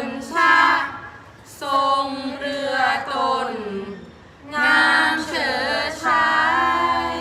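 Unaccompanied Thai royal barge chanting (kap he ruea): a verse sung in three long, drawn-out phrases of held notes that waver and slide in pitch, with short breaths between them.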